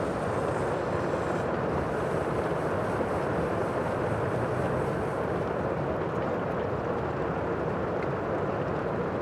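The sea: a steady, even rush of surf with no breaks or single waves standing out.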